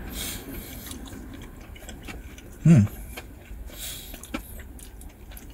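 A man chewing a mouthful of fried chicken sandwich, with small wet clicks and smacks of the mouth, and a short 'mm' from his voice a little under three seconds in.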